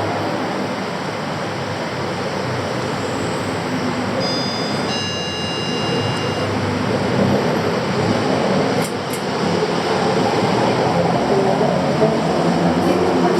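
Loud, steady rumbling din of busy city transit and traffic. About four seconds in, an electronic beeping chime of several steady tones sounds for about two seconds.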